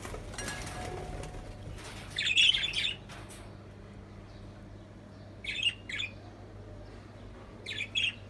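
Budgerigars chirping in short, high flurries. The loudest bout comes about two seconds in and two shorter ones follow later, over a rustle at the start and a steady low hum.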